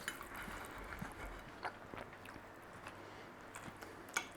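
A person chewing food quietly, with small scattered clicks and a sharper click near the end.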